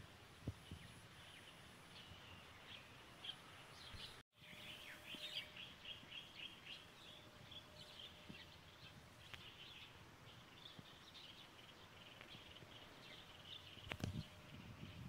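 Faint chirping of small birds, many short chirps. There is a soft knock near the end.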